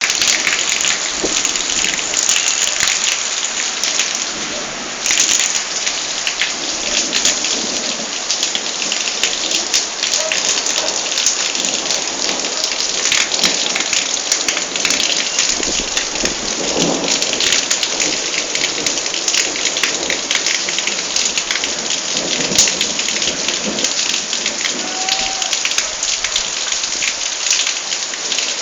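Heavy rain pouring down in a thunderstorm, a steady, loud hiss thick with the patter of drops hitting surfaces.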